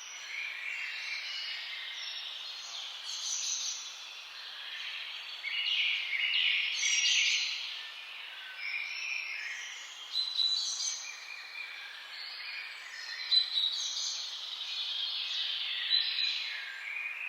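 Several wild birds singing and calling at once: a dense, overlapping chorus of high chirps and short whistles over a faint steady hiss, with a few sharper, louder calls in the second half.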